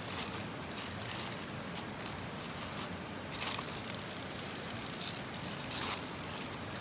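Campfire crackling under a steady hiss, with a few sharp pops from the burning wood.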